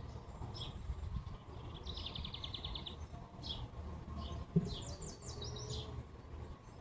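Wild birds singing and calling: short high chirps repeated about once a second, a fast trill about two seconds in, and a quick run of high notes around five seconds in, over a steady low rumble. A single short thump about four and a half seconds in.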